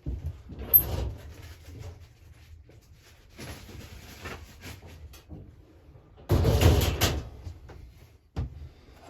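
Clunks, clicks and rustling of chainsaw parts being handled and set down on a workbench, with a louder clunk and rustle about six and a half seconds in.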